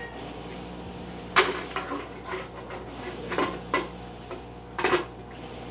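Hard plastic clicks and knocks, about six spread irregularly, the loudest a little over a second in, as a small aquarium LED light fixture is pushed and fumbled onto the rim of a glass corner tank that it will not snap onto.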